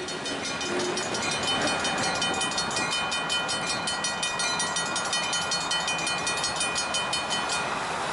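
Railroad grade-crossing bell ringing rapidly, about five strokes a second, with a ringing tone over the rumble of the train; the bell stops shortly before the end.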